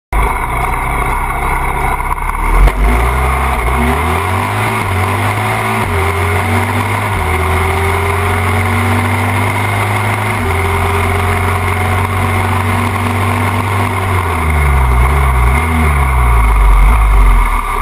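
Drag-racing motorcycle engines running hard down the strip. Their pitch steps and shifts several times, and they grow louder near the end.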